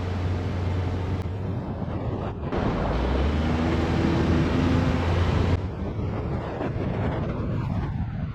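Car on the move: a steady low engine hum under road and wind noise, with the sound changing abruptly about two and a half seconds in and again about halfway through.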